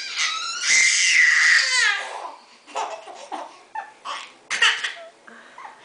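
A baby's loud, high-pitched squeal held for about two seconds, dropping in pitch at the end, followed by short bursts of giggling and babbling.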